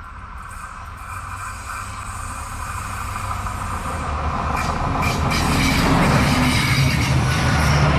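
SA137 diesel multiple unit approaching and growing steadily louder, its engine and wheel noise rising, with clicks of the wheels over the track from about halfway.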